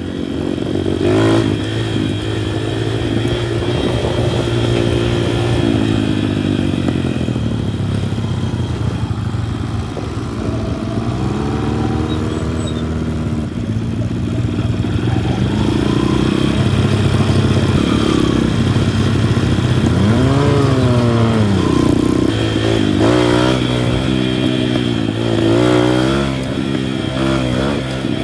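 Minibike engine running while ridden, its pitch repeatedly rising and falling as the throttle is opened and eased off.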